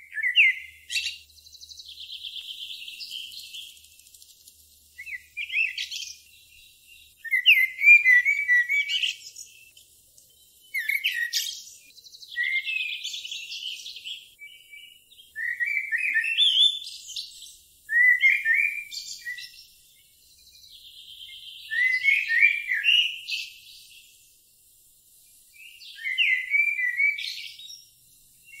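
A songbird singing repeated short phrases of chirps and trills, each a second or two long with a brief pause between, about nine in all.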